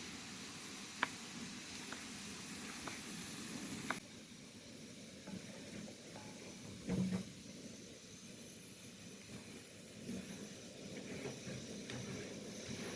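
Cooking over a wood fire: a steady sizzling hiss with a few sharp crackles in the first seconds. The hiss drops a little after an abrupt cut at about four seconds, and there is one dull knock near the middle.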